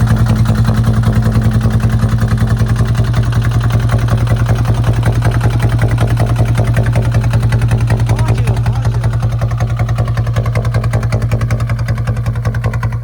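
Kubota ZT155 two-wheel tractor's single-cylinder diesel engine running steadily with a rapid, even chugging pulse, cutting off suddenly at the end.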